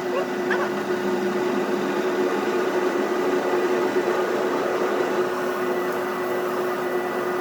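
A steady machine hum with a constant low tone.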